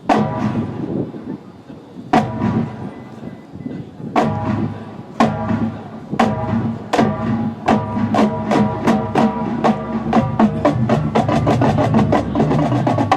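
High school marching band opening its halftime show: loud accented hits from the horns and drums, about two seconds apart at first, then coming faster and faster into a rapid run near the end.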